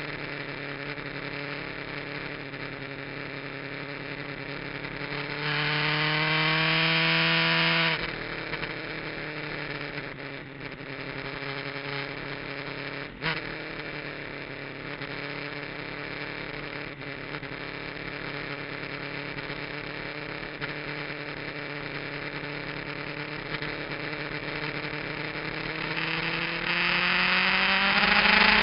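Kawasaki GPZ900R's inline-four engine, fitted with an aftermarket muffler, heard from an onboard camera on track: revs climb for a couple of seconds, drop sharply about eight seconds in, run steadily at lower revs with a single click a few seconds later, then climb again near the end.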